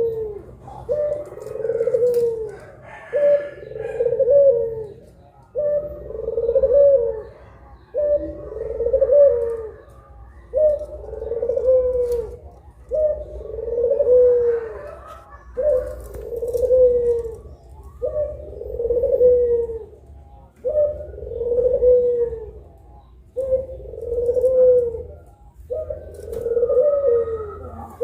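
Puter pelung dove cooing: a long, arched coo, repeated over and over about every two and a half seconds.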